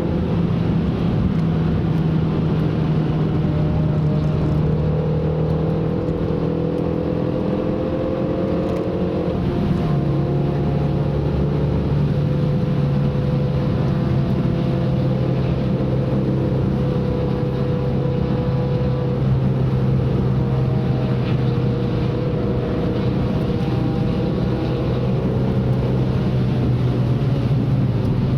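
Car engine running hard under load on a wet track, over a constant rush of tyre and road noise. Its pitch climbs slowly, then drops sharply about nine seconds in at an upshift, and stays fairly steady after that.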